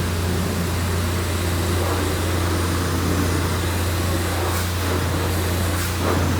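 Self-service car wash pressure wand spraying water in a steady hiss, over a constant low hum.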